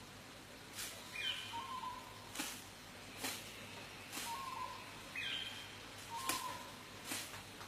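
A bird calling: a short phrase of a few quick notes, repeated about every four seconds. Sharp clicks come between the calls, several times, and are the loudest sounds.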